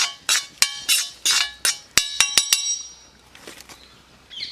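Metal ladle scraping and stirring in a metal cooking pan in regular strokes, about three a second, then a few sharp ringing taps of metal on metal a little after two seconds; the strokes stop soon after.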